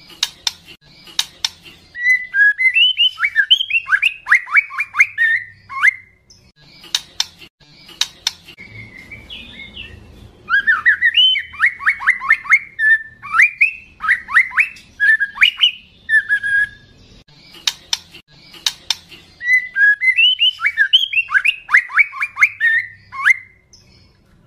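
Juvenile white-rumped shama (murai batu trotol) singing loudly: three bursts of rapid sweeping whistled phrases, with sharp clicks in the gaps between them.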